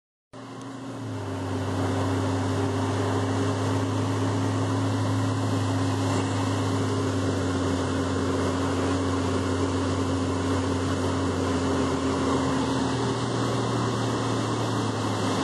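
Steady drone and hiss of a vehicle heard from inside the cabin, fading in over the first second or two after a brief gap and holding even.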